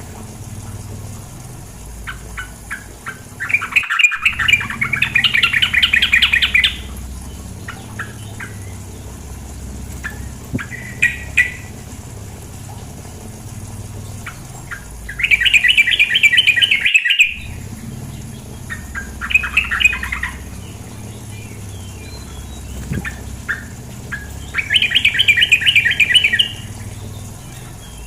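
Female yellow-vented bulbul (trucukan) calling: four rapid chattering bursts of one to three seconds each, with short single notes between them.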